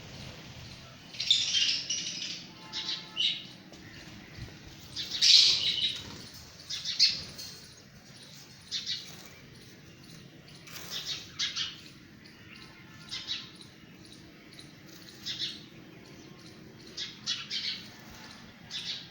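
Lovebirds chirping and squawking in short, shrill bursts scattered irregularly, the loudest about a second in and about five seconds in.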